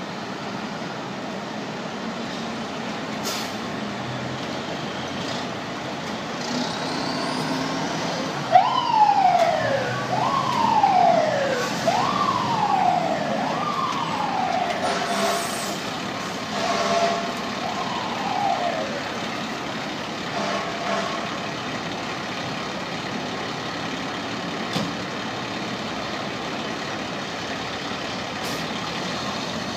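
Fire truck siren sounding through steady city traffic noise: about eight seconds in it starts sweeping quickly up and down in pitch, roughly every second and a half, and it stops around twenty seconds in.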